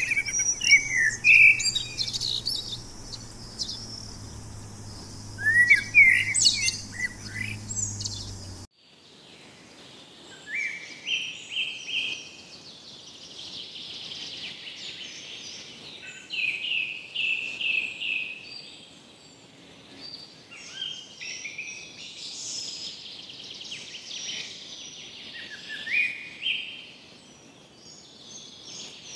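Birds singing and calling with many short chirps and whistled phrases. About nine seconds in, the background changes abruptly, and from then on a bird repeats short phrases of quick notes stepping upward in pitch.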